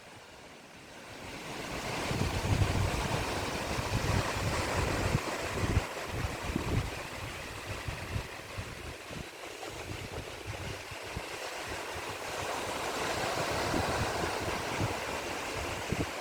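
Sea waves washing onto the shore, a steady rush that swells over the first couple of seconds, eases off midway and builds again near the end. Wind buffets the microphone underneath with an irregular low rumble.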